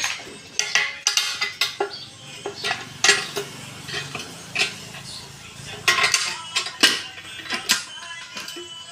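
Irregular metal clinks and clanks of steel parts or tools being handled, some ringing briefly, over a low steady hum.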